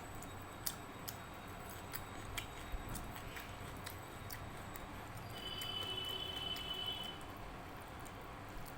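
Close-up eating sounds: scattered wet clicks and smacks of chewing and of fingers working rice and dal. A faint high steady tone sounds for a second or two just past the middle.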